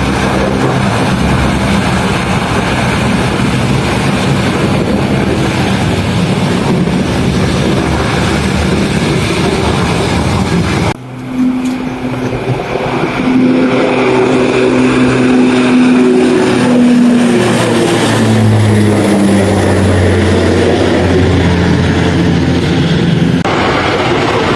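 Aircraft engines running loud and steady. About eleven seconds in the sound cuts abruptly to another aircraft engine sound whose tones fall in pitch.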